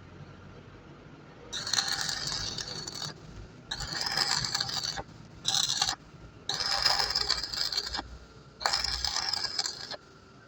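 Metal scraping on metal in five bursts of about a second each, separated by short pauses.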